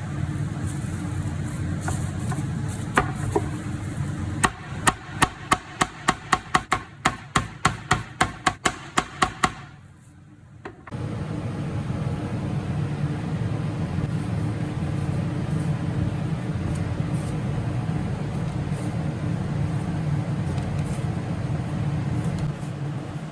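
A quick run of about sixteen sharp strikes on a kitchen cutting board, about three a second, lasting some five seconds, over a steady low hum.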